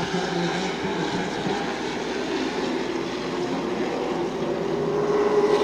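Several Super Truck race engines running at speed around the oval, a mix of engine notes wavering up and down, growing louder near the end as trucks come closer.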